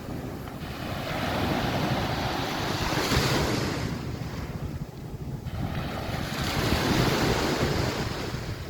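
Sea waves washing onto the beach, swelling twice and fading between, with wind buffeting the microphone.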